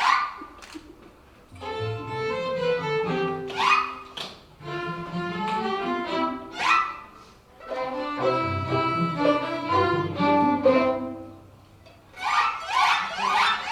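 Chamber orchestra strings playing a classical piece in phrases that swell and fade, with a low bass line under the higher parts. Quick upward slides come about every three seconds, and a run of fast, repeated notes starts near the end.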